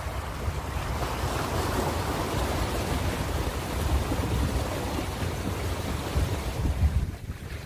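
Ocean waves breaking and washing on the shore, a continuous rushing wash with a low rumble, easing off suddenly near the end.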